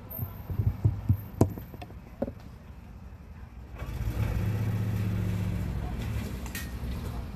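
A few handling knocks and clicks. From about four seconds in, a vehicle engine runs close by with a steady low hum.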